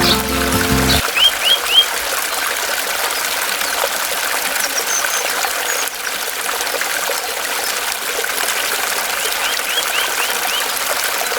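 Water running in a steady trickling splash, with small birds chirping in short quick runs of three or four. Background music cuts off about a second in.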